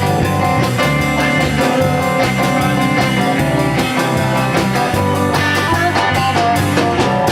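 Instrumental stretch of a rock band playing live, with guitars, bass and a drum kit keeping a steady beat.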